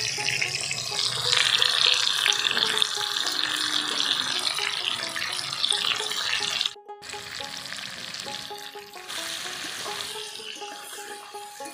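Raw mango pieces frying in hot mustard oil in a metal karai: a steady sizzle, with background music of held notes. About seven seconds in, the sound drops out for a moment, and then the sizzle goes on more quietly.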